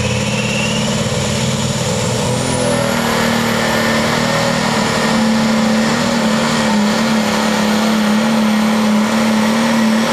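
Turbocharged diesel super stock pulling tractor running hard under load down the pulling track, its engine note steady. A high turbo whine rises about two seconds in and then holds.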